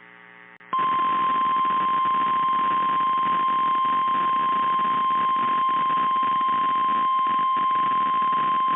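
NOAA Weather Radio 1050 Hz warning alarm tone: one steady, unbroken high tone that starts just under a second in, received over the radio with static hiss beneath it. It signals that an urgent warning message is about to be broadcast.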